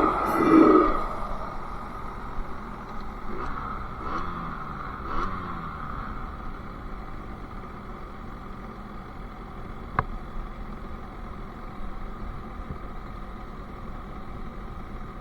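Sherco SM-R 50cc two-stroke engine with a KRM exhaust. A loud burst ends about a second in, then the engine runs quietly at low revs, the pitch dropping a couple of times around four to five seconds in. There is one sharp click about ten seconds in.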